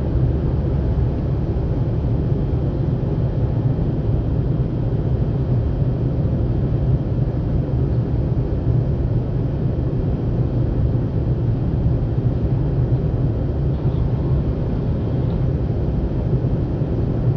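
Steady low cabin noise of a jet airliner in flight: engine rumble and rushing air, even throughout.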